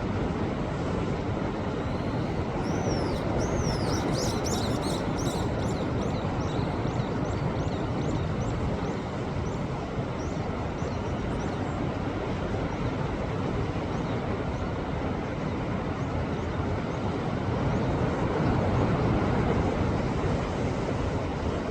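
Sea waves surging and washing over shoreline rocks, a steady rush that swells near the end. In the first half a bird calls with a rapid run of high, sliding notes that fades out.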